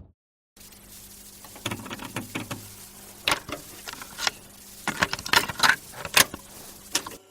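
Irregular clicks, taps and rattles, like something small being handled, over a faint low steady hum.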